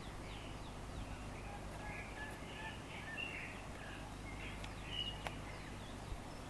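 Faint birds chirping in short scattered calls over a low steady hum, with a single sharp click about five seconds in.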